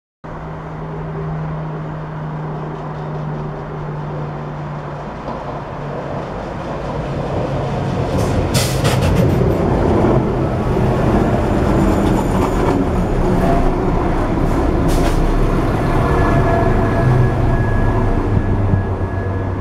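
London Midland diesel multiple-unit train approaching along the platform and running close past, with engine hum and wheel rumble on the rails. It grows louder over the first half and stays loud, with a few sharp clicks from the wheels and rails.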